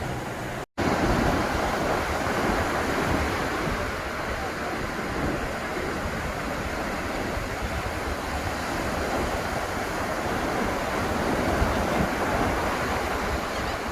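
Ocean surf washing onto the beach: a steady rush with gentle swells in level. It cuts out to silence for a moment under a second in.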